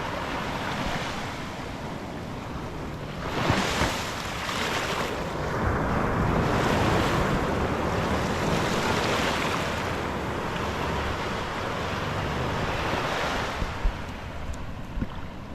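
Sea water washing in waves at the shore as the tide comes in, the surf noise swelling and easing in surges, with wind buffeting the microphone.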